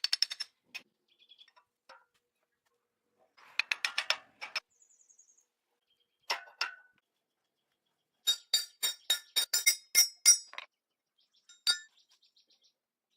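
Sharp metallic clinks and taps in several quick runs, each strike ringing briefly. The longest run, near the end, has about ten strikes at roughly four or five a second.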